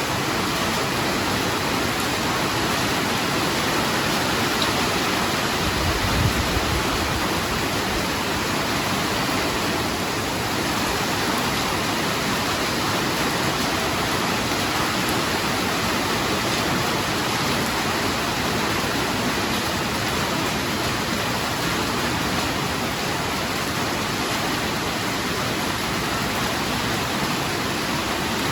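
Heavy rain falling steadily, a dense even hiss of water. About six seconds in there is a brief low rumble.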